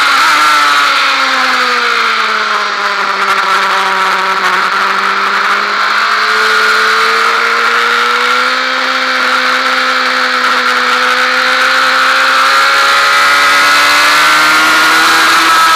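Honda Fireblade's inline-four engine heard onboard at speed. Its note falls over the first few seconds as the bike slows hard from about 110 mph, then rises steadily as it pulls out of the bend. Heavy wind noise on the microphone runs under it.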